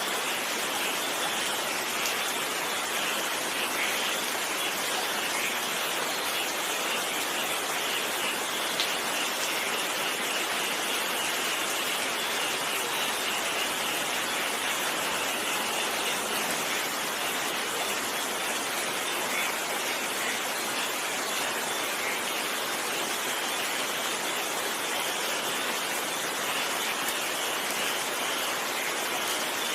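Steady rain: an even, unbroken hiss of falling drops, with one sharp tick about nine seconds in.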